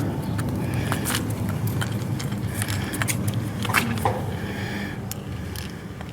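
Hand work on the electrical plug of a grain-heap fan: short clicks, scrapes and light knocks of small parts and tools, over a steady low hum.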